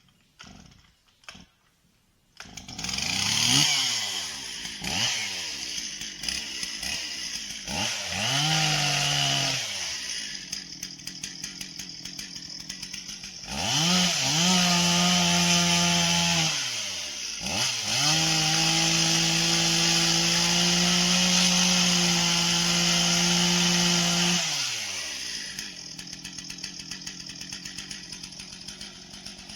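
Two-stroke chainsaw starting about two seconds in and blipped up and down several times. It is then run at high revs in two long steady stretches of several seconds each, and drops back to idle near the end.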